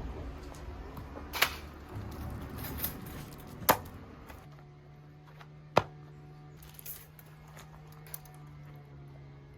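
A series of sharp knocks and clicks, three loud ones about two seconds apart and several smaller ones, over a faint background. A low steady hum comes in about halfway through.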